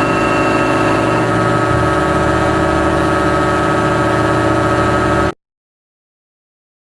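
Engine sound effect running steadily with a low rumble under it, cut off abruptly about five seconds in.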